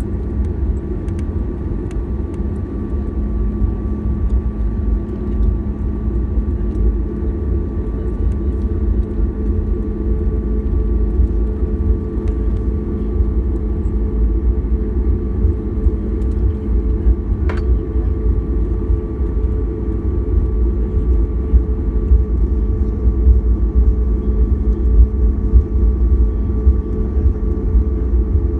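Cabin noise of a Boeing 737-800 taxiing after landing: a steady low rumble from the CFM56 engines at idle and the rolling airframe, with a constant hum under it. It grows slightly louder toward the end, and there is a single faint click about two-thirds of the way through.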